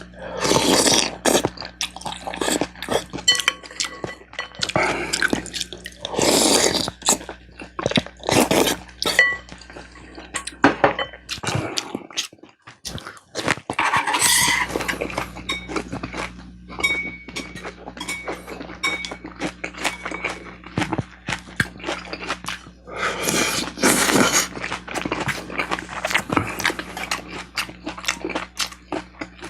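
Close-miked eating: a person chewing and slurping spicy beef soup (yukgaejang) with smoked duck, with utensils clinking against the dishes. It comes as many short clicks and wet smacks, with several longer bursts of a second or so, over a faint steady low hum.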